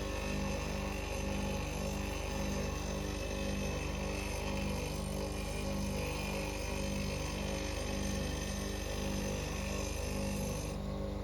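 Bench grinder running as a steel spindle gouge is ground freehand on its aluminium oxide stone: a steady motor hum with grinding hiss, which eases near the end. Soft background music with a steady pulse runs under it.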